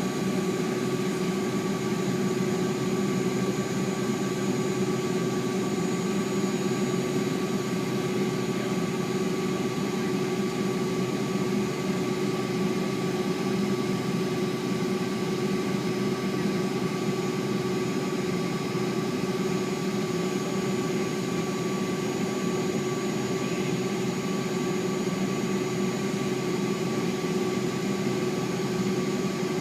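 Steady cabin noise inside a Boeing 757-200 jet airliner: its engines and air system running at constant power, an even rush with a steady hum and a few fixed whining tones that hold unchanged throughout.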